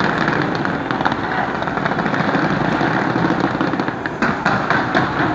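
New Year fireworks going off in rapid succession: a dense, continuous crackle with many sharp reports.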